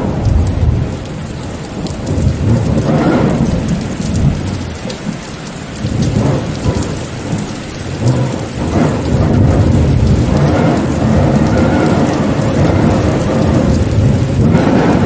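Heavy rain falling steadily, under a deep rumble that swells and fades every few seconds and grows louder and fuller from about ten seconds in.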